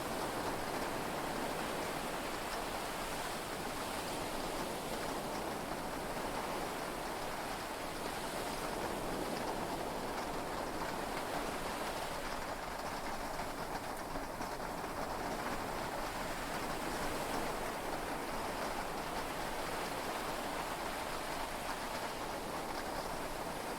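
Steady heavy rain falling on a yacht, heard from inside the cabin, an even hiss with no let-up.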